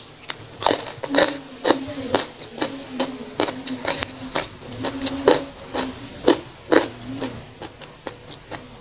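Close-miked chewing of raw young jengkol: irregular crisp crunches, about two or three a second, with wet mouth sounds.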